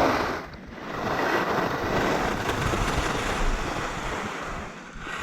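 Alpine skis carving and scraping over hard, icy snow, a steady rasping rush that eases off briefly about half a second in and again near the end, mixed with wind on the microphone.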